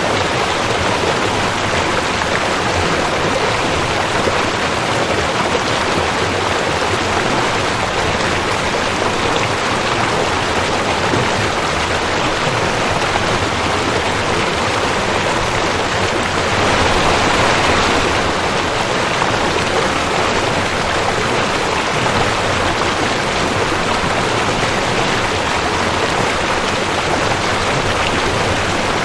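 Rushing creek water flowing steadily, with a brief swell in the rush a little past halfway.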